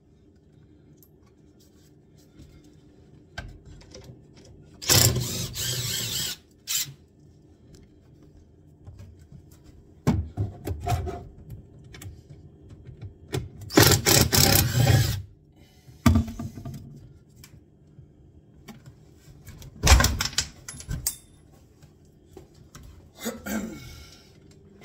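Cordless drill driver whirring in short bursts of about a second, backing out the screws that hold a kitchen unit, with knocks and clicks in between.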